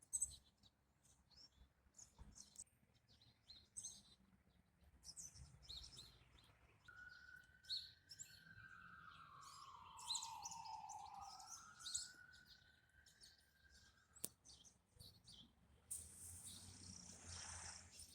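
Faint, scattered bird chirps. In the middle, a long tone of about seven seconds that dips in pitch and rises again.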